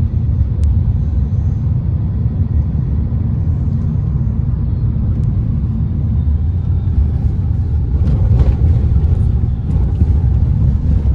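Steady low rumble of a car on the move, road and engine noise, swelling briefly about eight seconds in.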